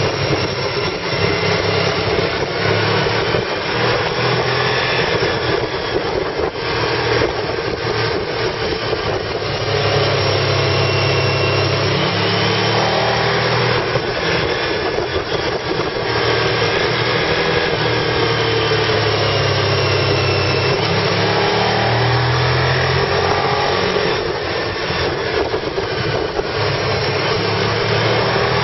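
Car engine and road noise heard from inside the cabin while driving, the engine note slowly rising and falling with speed on the curves. The transmission is stuck in third gear.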